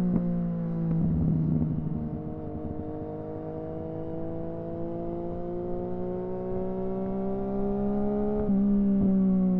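Yamaha FZ-09's three-cylinder engine pulling up through the revs, its note climbing steadily for several seconds after a dip about a second in, then stepping abruptly near the end.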